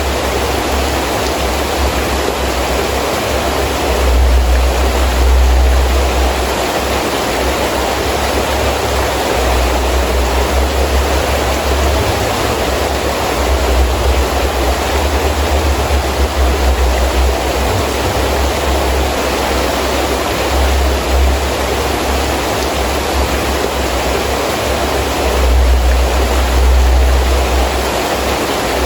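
Heavy rain falling steadily, with strong wind gusts rumbling in swells several times.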